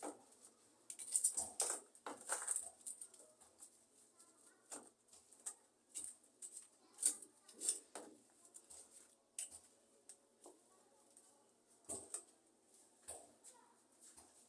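Irregular light scrapes, rustles and taps of hands working with potting soil and a plant pot.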